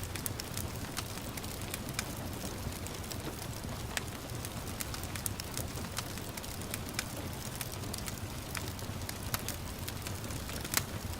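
Wood fire crackling with scattered sharp pops, the loudest near the end, over a steady hiss of gentle rain.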